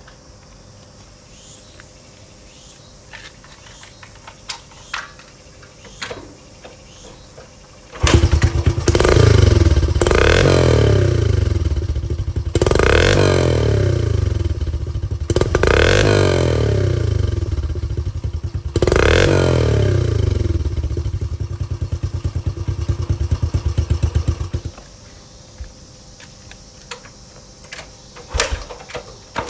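Honda CT110 Hunter Cub's small single-cylinder engine starting, blipped up and down four times about every three seconds, then shut off, its exhaust coming through the stock muffler with the end diffuser removed. Light clicks and knocks come before it starts and after it stops.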